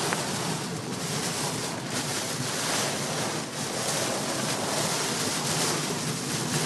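Torrential thunderstorm rain pouring onto a car's roof and windshield, heard from inside the car as a loud, steady, dense hiss of water.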